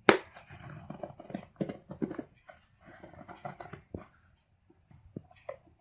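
Delivery packaging being opened by hand: a sharp click, then a run of irregular rustling, scraping and tearing noises, with short squeaks, as tape and wrapping are pulled off.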